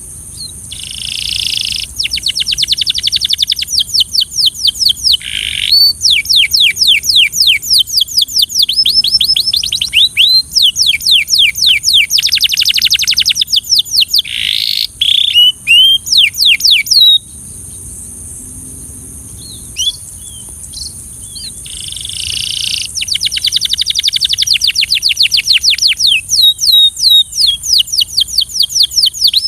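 Canary singing long, rapid trills of quickly repeated down-slurred notes in several phrases with short breaks between them. Past the middle there is a pause of a few seconds with only a few scattered notes, and then the trills resume.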